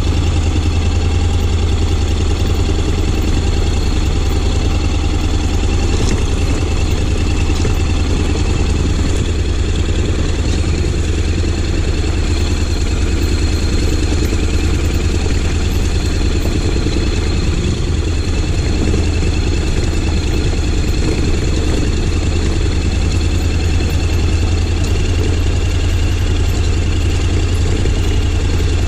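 Honda X-ADV 750's parallel-twin engine running steadily at low, even revs, a deep hum with no revving.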